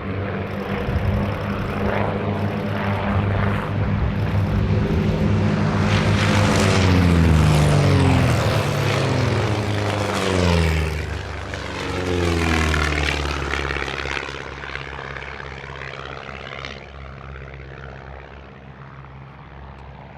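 Propeller aerobatic airplanes flying past during a display, their engines droning. The pitch drops twice as they pass, about a third of the way in and again just past halfway, and the sound then fades away.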